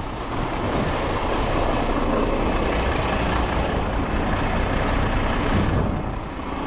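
Heavy tow truck engine running steadily with a dense, noisy mechanical sound that dips briefly near the end.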